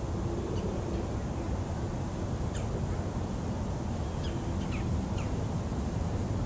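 Several short, quick bird chirps, a few of them from about two and a half seconds in, over a steady low outdoor rumble.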